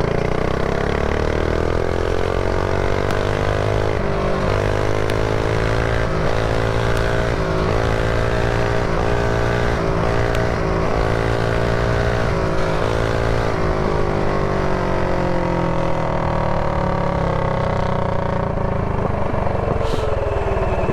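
Mini bike's single-cylinder four-stroke engine under way, heard close up from the rider's chin-mounted camera. The revs climb over the first few seconds, hold high with small rises and dips, then fall away steadily over the last several seconds.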